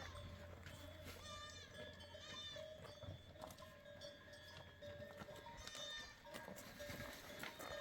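Goats bleating faintly, a few short calls spread across several seconds.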